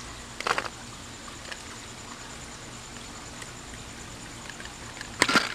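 Two brief clatters of paintballs and hard plastic, one about half a second in and a louder one near the end, as paintballs drop from a 3D-printed speed loader into a paintball magazine, with a few faint ticks between.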